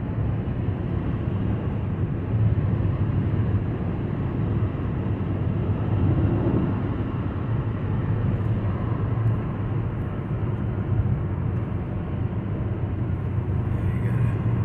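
Steady road, tyre and engine drone of a car cruising at highway speed, heard from inside the cabin.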